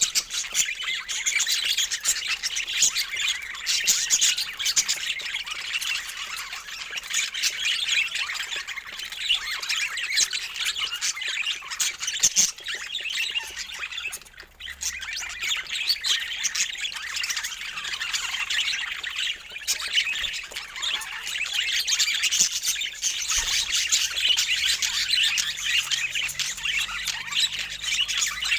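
A flock of budgerigars chattering and squawking, many birds calling over each other without pause, with a brief lull about halfway through.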